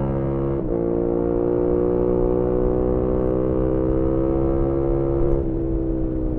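2018 Yamaha MT-125's single-cylinder four-stroke engine through a GPR aftermarket exhaust, heard onboard while riding. There is a gear change about half a second in, then the engine pulls with its note slowly rising, and the note drops and eases off near the end.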